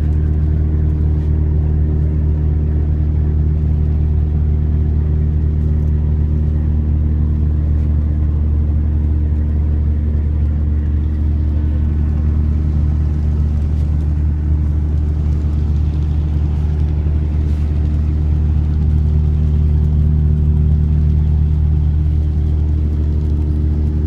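A boat's engine running steadily under way: a loud, even, low drone that holds the same pitch throughout.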